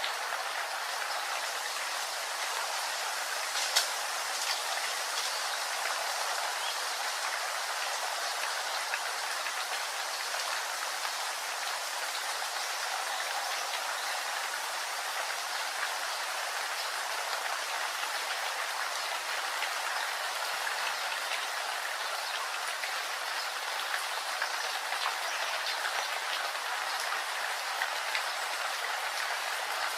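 Steady rain falling, an even hiss with scattered drop ticks and one sharper tick about four seconds in.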